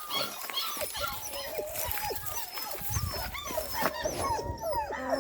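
Several puppies whimpering and yipping over one another, a dense stream of short, high-pitched cries that rise and fall.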